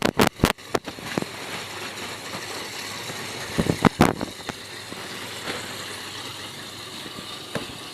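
Greenhouse plastic roof sheeting flapping in strong wind: a quick run of sharp snaps in the first second, then a steady rushing noise with a couple of louder snaps about four seconds in.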